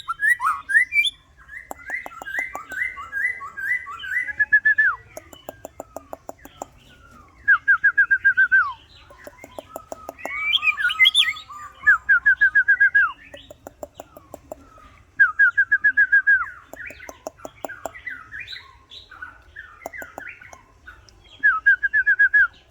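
White-rumped shama singing: loud bursts of fast, evenly repeated whistled notes, alternating with dry rattling clicks, the phrases a few seconds apart.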